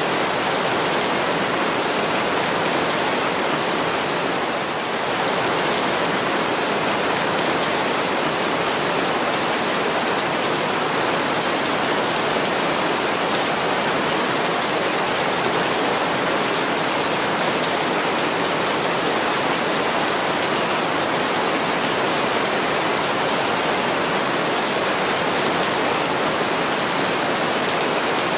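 Heavy rain falling steadily on a window, a dense, even hiss of water with no breaks, dipping slightly for a moment about five seconds in.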